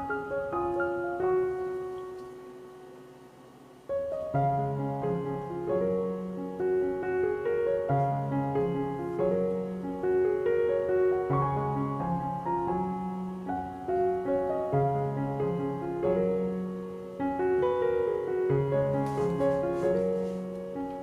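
Gentle background piano music. It dies down to a soft tail, then a fuller passage with low chords comes in about four seconds in.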